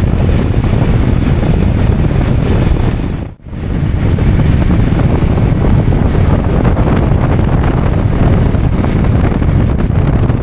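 Loud wind rushing and buffeting against the microphone, broken by a brief drop about a third of the way in.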